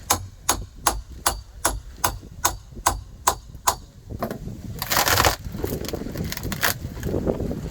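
Steady hand-tool strikes, about ten blows at roughly two and a half a second, chipping old wet wood out of a boat transom. The blows stop a little before four seconds in and are followed by a short, loud, rough burst of noise about five seconds in.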